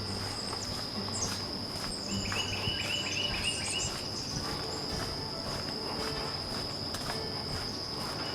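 A steady, high-pitched insect trill runs without a break. About two seconds in, a bird calls a quick run of repeated short notes for a couple of seconds, with a few higher chirps around it.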